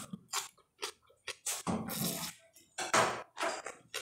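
Close-up mouth sounds of a person eating: chewing and smacking in short, irregular bursts with brief pauses between them.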